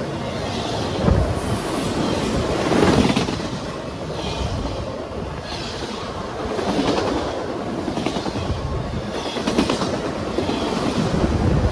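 Train rolling past, its wheels clattering over the rail joints, with louder swells every two or three seconds as sets of wheels pass.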